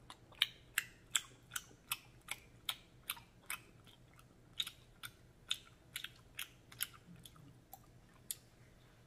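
Close-miked chewing of a chewy Korean rice cake in black bean sauce: a run of wet mouth clicks, about two or three a second, with a short pause about four seconds in and a few last clicks near the end.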